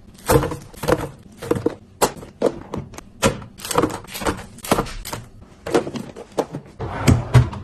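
Food packages and containers being set down and arranged in a refrigerator: a run of irregular knocks and clatters. Music comes in near the end.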